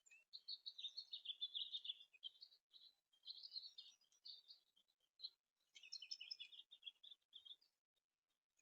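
Small songbirds chirping faintly in quick twittering runs, three bouts with short pauses between.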